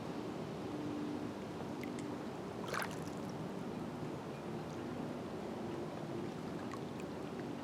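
Small waves of Green Bay lapping and gurgling against the shore, with one sharper splash about three seconds in. A faint low hum comes and goes underneath.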